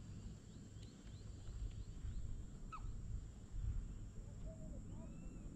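Scattered marsh bird calls: short falling chirps and, near the end, a few arching notes, over an uneven low rumble that swells twice.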